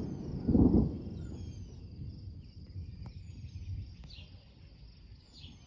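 Thunder: a loud low clap about half a second in from a cloud-to-ground lightning strike, fading into a rumble over the next few seconds. Faint high chirps repeat in the background.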